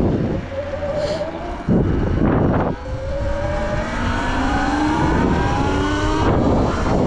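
Sur Ron electric dirt bike's motor whining, the whine rising steadily in pitch as the bike picks up speed. Two bursts of loud rushing noise break in, about two seconds in and again near the end.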